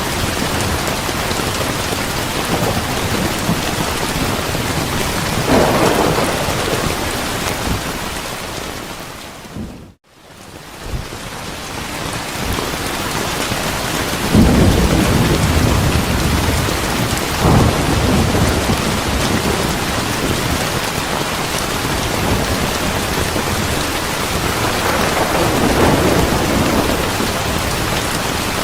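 Steady heavy rain with rolling thunder rumbling several times. About a third of the way through, the sound fades out to near silence for a moment and comes straight back, like a loop seam.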